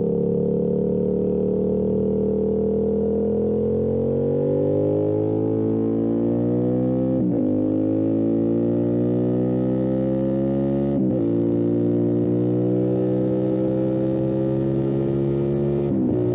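Motorcycle engine pulling hard under acceleration, its pitch climbing steadily, with quick upshifts about 7 s and 11 s in and again near the end, each dropping the revs before they climb again.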